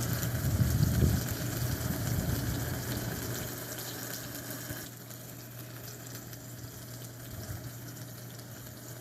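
Whirlpool dishwasher running: a steady pump-motor hum with water rushing inside the tub. About halfway through, part of the rushing drops away and the sound settles quieter.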